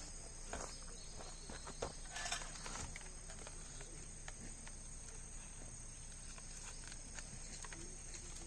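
Steady high-pitched chorus of insects, with scattered small clicks and knocks and one brief louder rustle a little over two seconds in.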